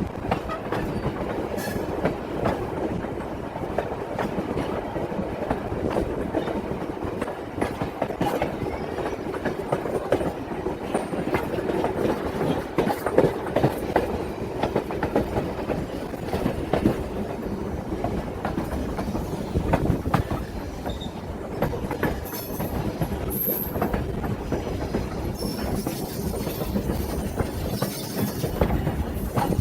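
Excursion train rolling along the rails: steady rattling with rapid clicking of wheels over the track, and a faint high-pitched wheel squeal in the last few seconds.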